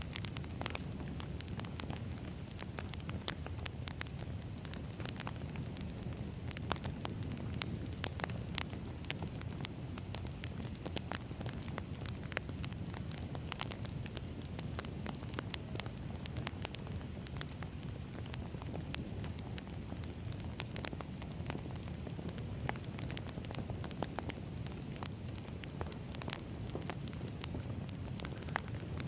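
Wood fire crackling: a steady low rumble with frequent irregular sharp pops and snaps of burning logs.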